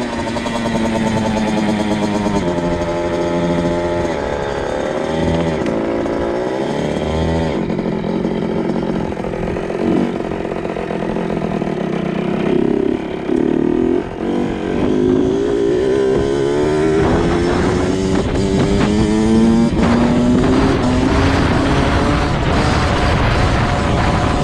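A 2002 Kawasaki KX 65's 65cc two-stroke engine being ridden hard, revving up and down. In the second half its pitch climbs in several rising pulls, one after another.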